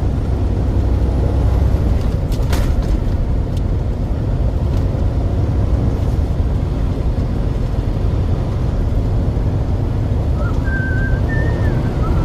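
Steady low drone of a semi truck's engine and tyres heard inside the cab while cruising on the freeway, with a sharp click about two and a half seconds in and a faint wavering high tone near the end.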